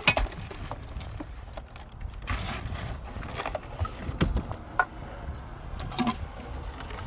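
Scattered knocks, clicks and clatter of hard objects being handled and shifted in a wrecked boat's hull, with a short rustling swish a couple of seconds in, over a low steady rumble.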